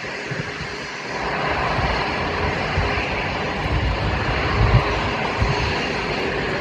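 Jet engine noise from a Boeing 747-8F freighter's four GEnx turbofans: a steady, rushing noise that swells about a second in and then holds, with a few low thumps.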